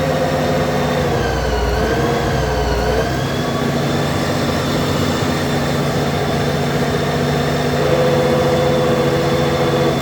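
Honda GL1800 Gold Wing's flat-six engine idling in neutral with the clutch lever released. About a second in, one note in the running sound dips and rises in pitch for a couple of seconds, and an added note comes in near the end.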